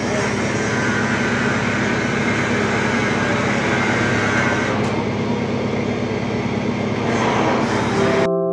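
Angle grinder cutting metal: a loud, steady grinding hiss over a constant motor hum, cutting off suddenly near the end.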